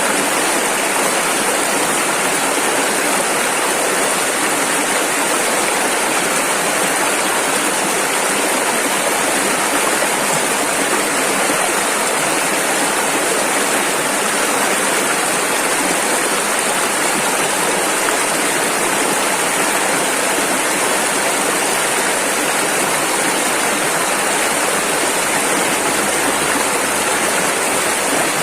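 Rushing river: fast water running over rapids in a steady, unbroken rush.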